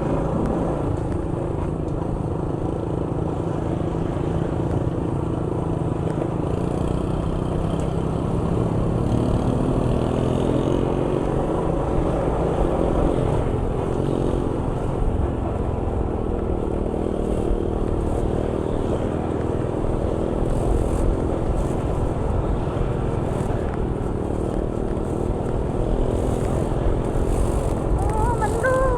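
Motor vehicle engine running steadily on the move, with road and wind noise. The engine pitch rises and falls around the middle as it speeds up and eases off.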